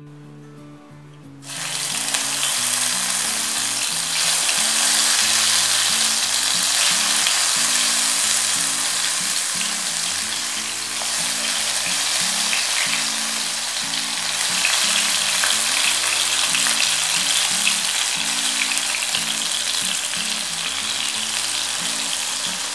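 Masala-coated brinjal (eggplant) slices sizzling in hot oil in a frying pan. The sizzle starts about a second and a half in and gets louder around four seconds in as more slices go into the oil.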